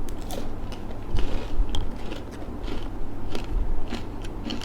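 Biting into and chewing a chocolate stick filled with popping candy, with scattered small clicks and crackles.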